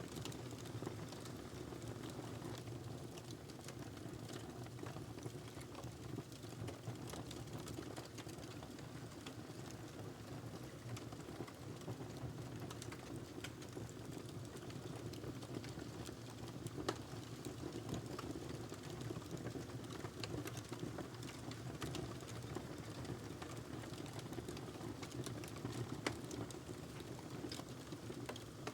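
Wood fire burning in a fireplace: a steady low rumble of flame with frequent small crackles and pops, and a few louder snaps.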